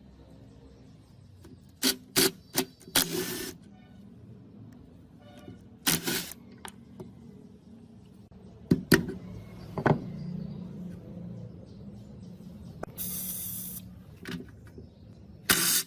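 Hand work on metal parts: sharp clicks and knocks, with a few short bursts of rough scraping or spraying noise.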